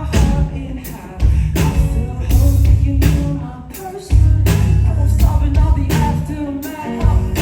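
Live band playing a rock-pop song: a vocalist sings over drum hits, bass and guitar, with the bass dropping out briefly a few times.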